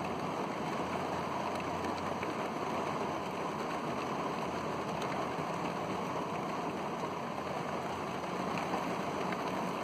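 Heavy rain pouring down in a thunderstorm, a steady even rush with no thunder clap.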